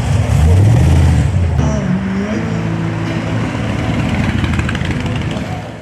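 A vehicle engine revving, its pitch rising twice in the first two seconds, then holding a steady note before easing off. The sound cuts off abruptly near the end.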